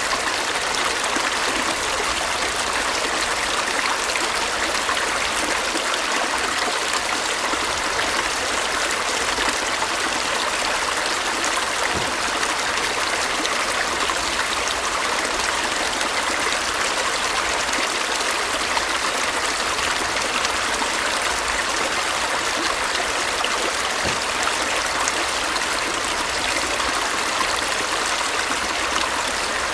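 A stream flowing and trickling over stones, a steady rush of water without breaks.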